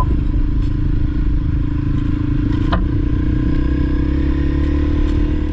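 Honda CRF300L single-cylinder four-stroke dirt bike engine running steadily at low speed, with one sharp click about two and a half seconds in.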